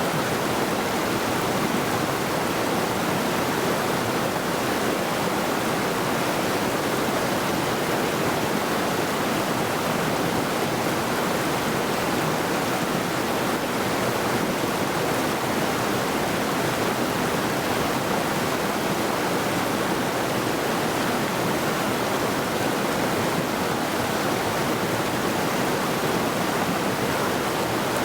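Middle Saluda River, a rocky mountain river, rushing over stones in a steady, even rush of water.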